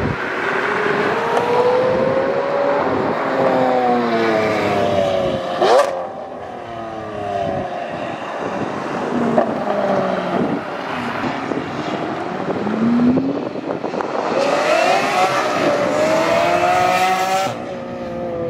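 V12 supercar engines pulling hard at full throttle, each one's pitch climbing steeply, then dropping and fading as the car moves off, with a sharp crack about six seconds in and another rising pull near the end.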